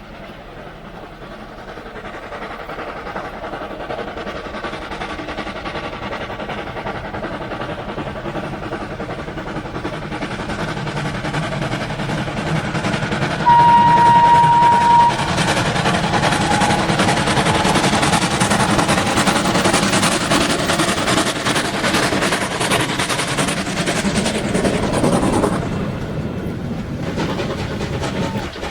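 Historic train approaching and passing close by, growing steadily louder, with one short high-pitched warning blast of about a second and a half midway. Wheels clatter rhythmically over the rail joints as it goes past, and the sound drops off sharply near the end.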